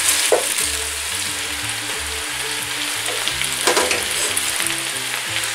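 Shredded savoy cabbage sizzling as it goes into a pot of hot olive oil with browned garlic and onion and is pressed down by hand, with a couple of louder leafy rustles about half a second in and near four seconds.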